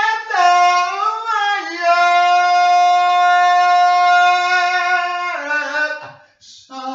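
A solo voice singing without words, sliding between notes and then holding one long steady note for about three seconds before dropping to a lower note near the end.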